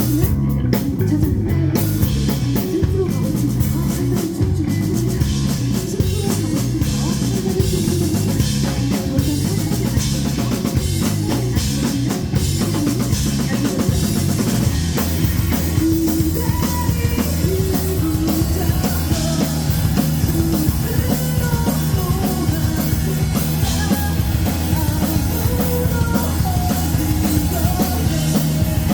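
Live rock band playing an instrumental passage with drum kit and guitar, the music changing character about halfway through as a melodic line comes forward.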